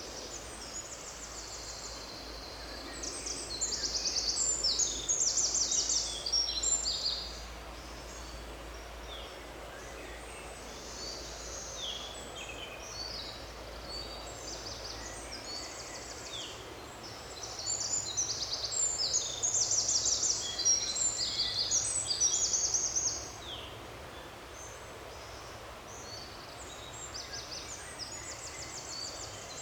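Songbirds singing in a forest: quick, high trills and chirps that overlap, with two busier stretches, over a soft steady background hiss.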